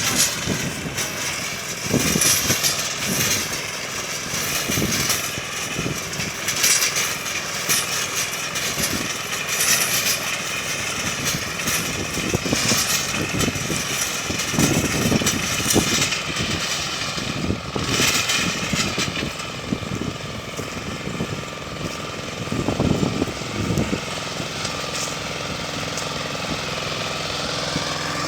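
Small 18 hp diesel tractor engine running steadily while its rototiller turns soil, with irregular knocks and rattles over the engine note.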